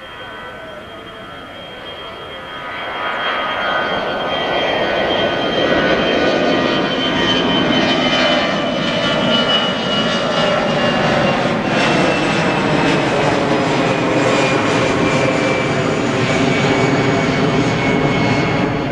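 The four turbofan jet engines of an Antonov An-124 Ruslan cargo jet grow louder over the first few seconds, then run loud and steady. Above the roar is a high whine that slowly falls in pitch.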